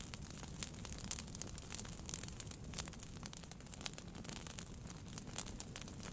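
Wood fire burning in a fireplace, crackling with frequent sharp pops over a low steady rumble of the flames.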